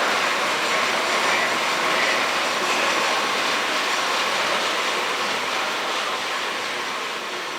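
Power loom weaving, a steady dense mechanical clatter that eases off slightly near the end.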